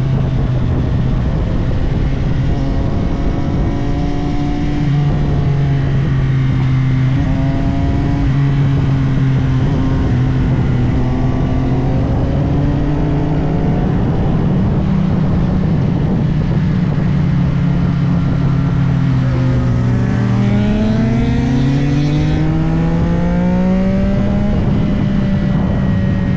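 CFMOTO 675SR-R's inline three-cylinder engine running at road speed over a steady rush of wind, its pitch holding and shifting slightly with the throttle, then climbing in a long acceleration about twenty seconds in before settling.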